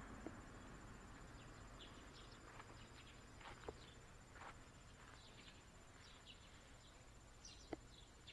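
Faint outdoor insects chirping, scattered short high chirps with a thin steady trill, and a few soft clicks.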